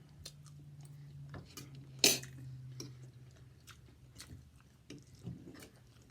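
Eating at a table: a fork or knife clicking against a plate, with chewing, and a louder clack about two seconds in. A low steady hum runs under the first half.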